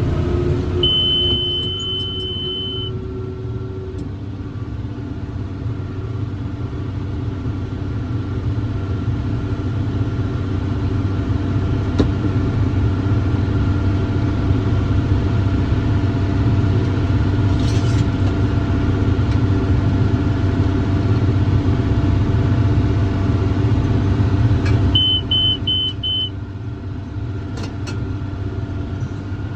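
John Deere 7410 tractor's diesel engine running steadily under load while pulling a John Deere 468 round baler through hay. An electronic monitor beeps over it: one long beep about a second in, and four short beeps near the end.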